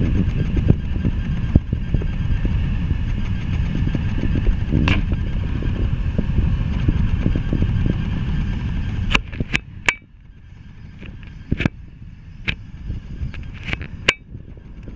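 Loaded coke hopper cars of a freight train rolling past: a steady low rumble of steel wheels on rail with faint high steady tones over it. About nine to ten seconds in the rumble drops sharply in level and goes on quieter, broken by a series of sharp clicks.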